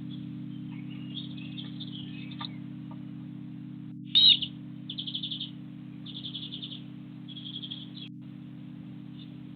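Small garden birds chirping: a few thin chirps, then a sharp loud call about four seconds in, followed by three short, rapid trills about a second apart. A steady low hum runs underneath.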